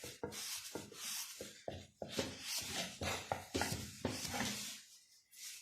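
Rapid, irregular rubbing strokes on a CG 125 motorcycle's rear wheel hub as it is polished with cleaner and red compound; the rubbing stops about five seconds in.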